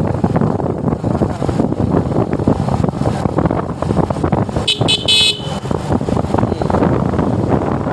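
Riding noise on a motorcycle: steady rush of wind on the microphone with engine and road noise. About five seconds in, a vehicle horn gives two short honks.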